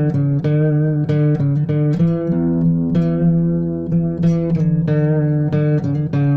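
Instrumental music played on guitar: a slow melody of plucked notes, several a second, over a steady low note.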